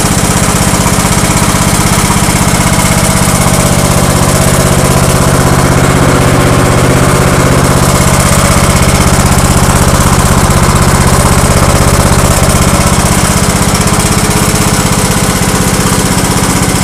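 Lawn tractor engine running steadily and loudly, with a fast, even firing pulse.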